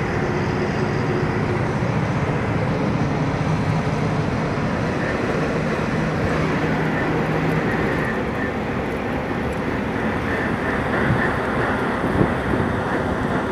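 Truck on the move: steady engine and road noise, with a couple of short knocks near the end.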